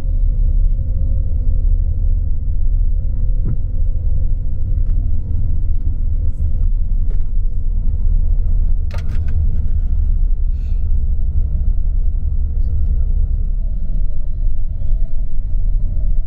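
Tour bus's engine and road rumble heard from inside the cabin while driving: a loud, steady low rumble with a faint whine, and a few brief clicks about nine seconds in.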